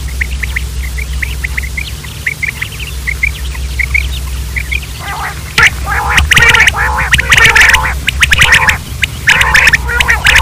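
Quails calling: soft short chirps repeat a few times a second, then about halfway through loud, harsh calls come in quick runs.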